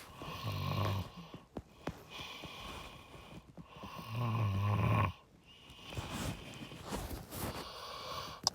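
Two low, rasping throat sounds from a man, a short one about half a second in and a longer, louder one about four seconds in.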